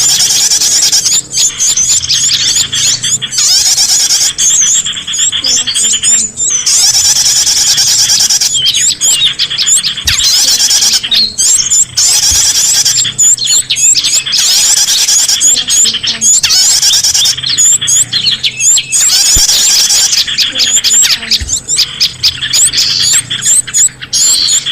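Bird-lure (pikat) recording of small songbirds: loud, high-pitched chirping and twittering, many quick notes overlapping with hardly a pause.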